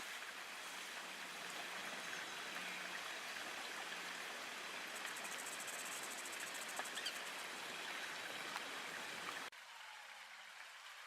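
Steady hissing outdoor bush ambience, with a rapid high-pitched trill for a couple of seconds around the middle. About a second and a half before the end it cuts abruptly to a quieter hiss.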